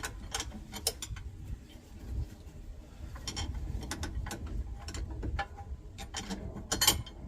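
Irregular metallic clicks and knocks of mounting hardware and brackets being handled and test-fitted against the van's frame, with a close cluster of clicks near the end.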